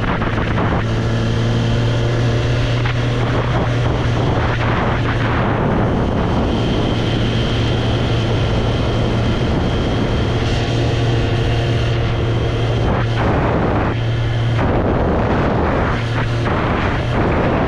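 2024 Triumph Street Triple's three-cylinder engine running at steady riding revs, with wind and road noise mixed in; the engine note briefly drops and changes about fifteen seconds in.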